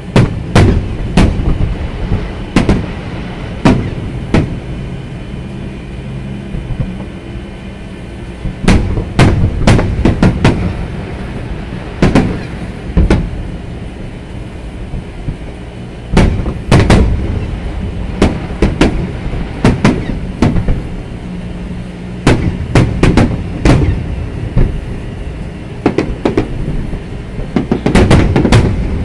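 Aerial fireworks shells bursting overhead: irregular clusters of sharp bangs, sometimes several in quick succession, over a steady low rumble.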